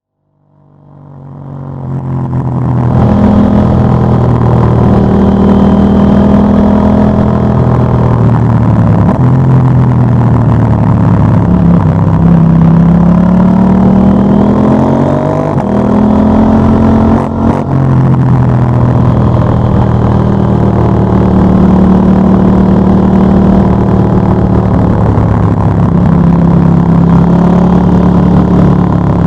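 KTM 890 Duke GP's parallel-twin engine through a Dominator HP8 slip-on exhaust with dB-killer, under way: the engine note holds steady for stretches and changes pitch in steps, with one long rising pull past the middle that drops sharply as it shifts up. The sound fades in over the first two seconds or so.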